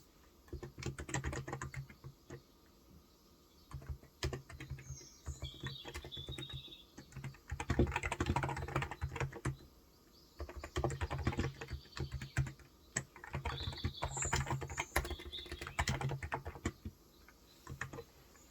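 Typing in runs of quick keystrokes with short pauses on a Cox Endeavour tenkeyless keyboard with 35 g electrostatic capacitive (non-contact) switches. Small birds chirp a few times in the background.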